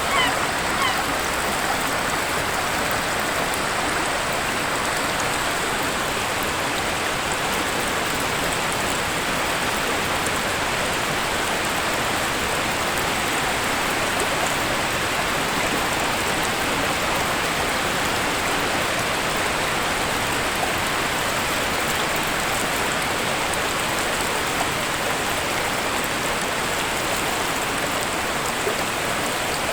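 Waterfall water rushing in a steady, even roar of falling water. A few short, repeated bird calls sound in the first second.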